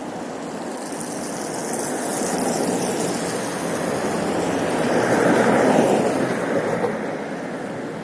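Wind and road rush on a motorcycle rider's camera while riding through city traffic, swelling to its loudest about five to six seconds in, then easing off.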